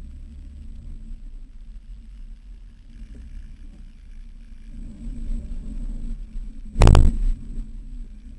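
Off-road Jeep engine running with a low rumble, swelling a little about five seconds in. A single loud thump comes near the end.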